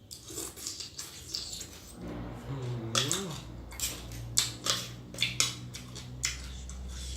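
Blue swimming crab shell being bitten and chewed, with a string of sharp cracks and crunches. A short hum rises and falls about three seconds in.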